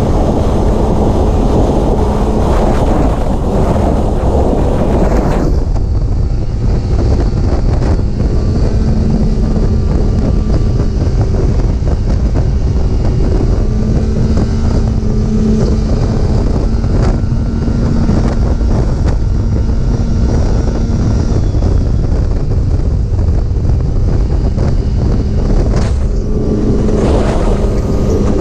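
Snowmobile engine running steadily at speed, with wind buffeting the microphone. The sound turns duller about five seconds in.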